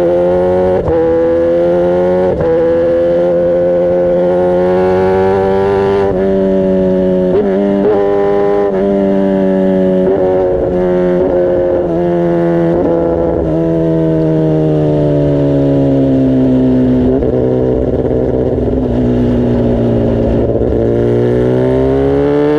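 Kawasaki ZX-10R's inline-four engine under way. Its exhaust note climbs through the gears with a brief dip at each shift, rises and falls quickly several times, then drops away as the bike slows and climbs again near the end.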